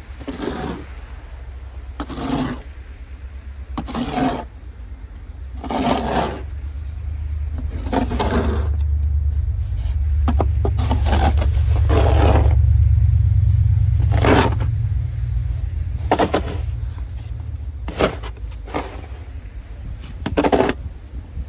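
A snow shovel scraping over pavement in about ten strokes, roughly one every two seconds. A low rumble swells through the middle and fades toward the end.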